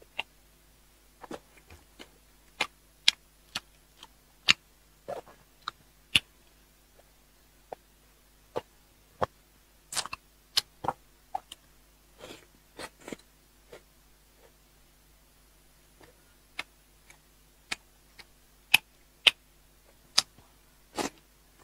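A person chewing soft braised pork belly close to a clip-on microphone: irregular wet mouth clicks and lip smacks, bunching into quicker runs about halfway through and again near the end.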